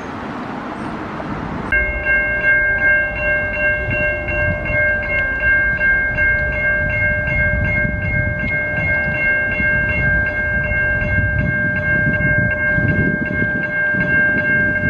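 Level crossing warning bell starting suddenly about two seconds in and ringing on steadily with rapid, even strikes, over a low rumble of rail traffic.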